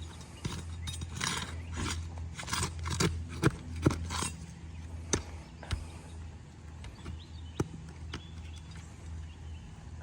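Flat bar scraping and prying under an asphalt shingle to work its roofing nails loose: a run of scrapes in the first few seconds, with sharp metallic clicks, the loudest two about a second apart, and a few more later, over a steady low hum.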